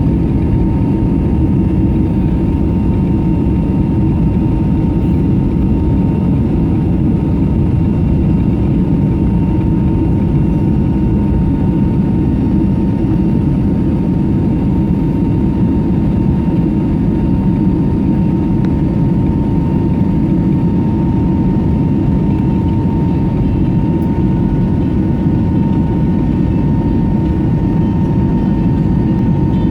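Cabin noise inside an Airbus A321neo, made by its Pratt & Whitney geared turbofan engines and the airflow around the aircraft. It is a steady, loud rumble with a thin, constant high whine above it.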